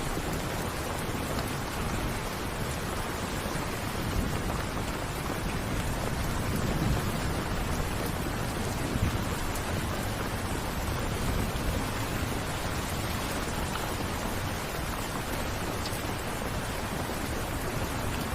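Steady rain falling, an even hiss of many drops with no break.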